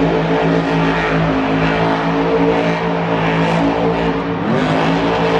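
Monster truck engine running loud and steady at high revs, rising briefly in pitch about four and a half seconds in.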